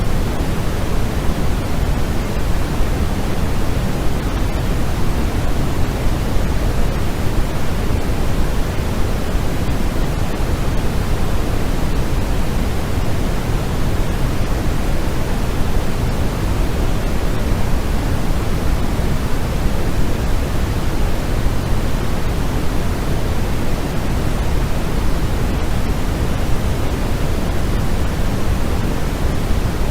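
Continuous, unchanging white noise played as a sleep sound, a full even hiss heavier in the low end than the top, so it sounds closer to pink noise.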